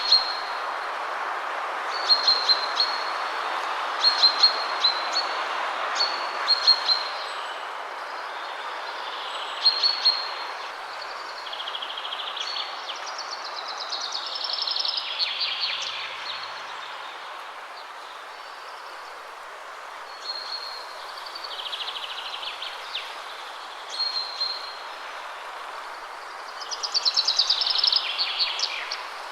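Wind rushing steadily through trees, swelling and easing, while songbirds sing short, high, repeated notes, with a rapid falling trill near the end.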